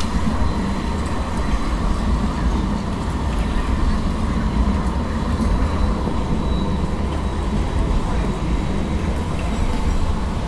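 Light rail tram running past on a wet city street, a steady low rumble mixed with traffic noise.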